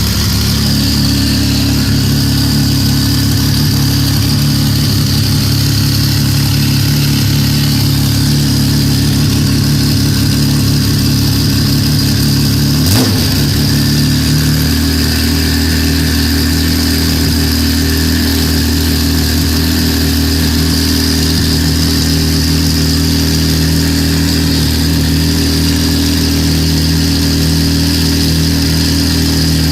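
Pennzoil Nismo GT-R JGTC race car engine idling steadily and loudly. About halfway through there is a short sharp click, and the idle note settles into a slightly different pitch.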